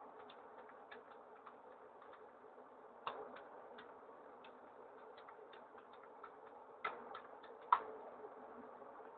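Faint light clicks or ticks, a few each second and not evenly spaced, over a low hiss, with three louder knocks about three, seven and eight seconds in.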